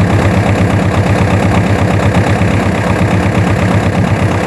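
Tractor engine idling with a steady, rhythmic low chugging.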